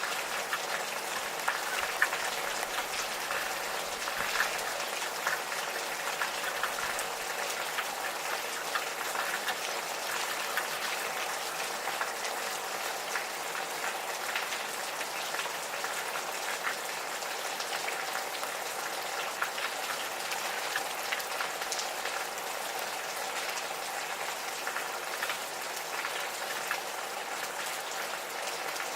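Gentle rain falling steadily, a dense patter of individual drops over an even hiss.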